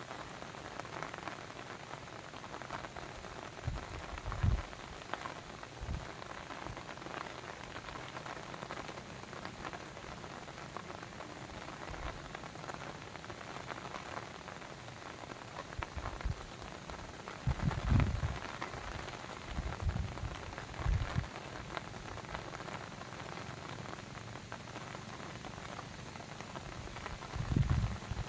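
Steady rain pattering on a surface, with scattered individual drops. A few short low thuds come through around a few seconds in, in the middle and near the end.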